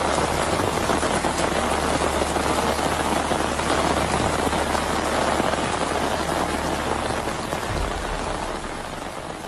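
Heavy rain pouring down: a steady, dense hiss that eases slightly near the end, over a low steady rumble.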